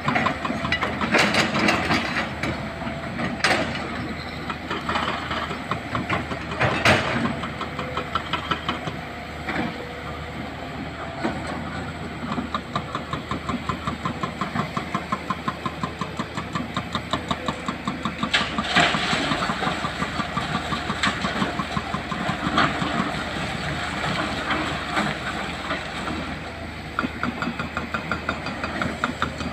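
Excavator's diesel engine running under load with a fast, even pulsing, and a few sharp, loud knocks of hard material being struck or dropped.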